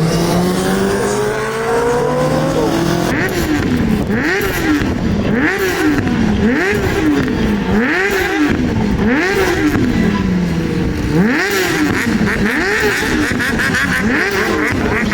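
A motorcycle engine climbing steadily in pitch for the first couple of seconds. It then swings up and down in pitch over and over, about once a second.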